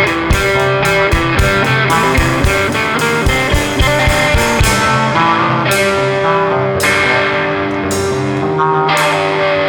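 Rock band playing an instrumental passage on electric guitar and drums. Quick drum hits give way about halfway through to a few cymbal crashes over held guitar chords.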